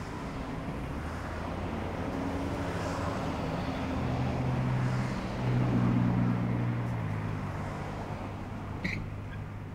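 A motor vehicle's engine running with a low hum that swells to its loudest a little past halfway and then eases off. A short click comes near the end.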